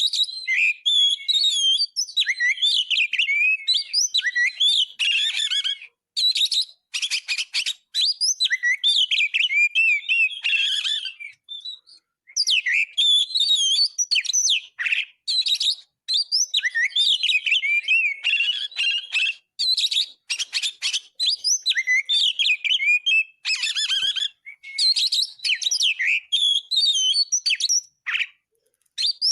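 Oriental magpie-robin (kacer) singing a loud, varied song of rapid whistles, chirps and trills, pausing briefly about six, twelve and twenty-eight seconds in.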